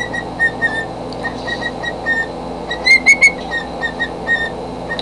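Cockatiel whistling a run of short, even chirps, a few a second, with three louder, slightly higher notes about three seconds in.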